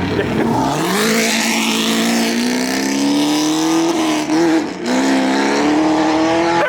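Car engine accelerating hard, its pitch climbing steadily, then dipping briefly about four and a half seconds in and climbing again.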